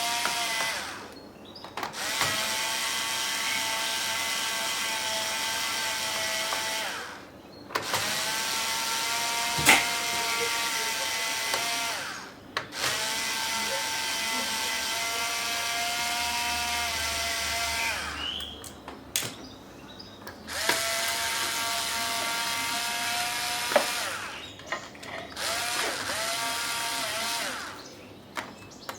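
Small electric screwdriver backing screws out of a laptop's case, its motor whining steadily in repeated runs of a few seconds each with short pauses between them, the pitch bending briefly as each run starts and stops.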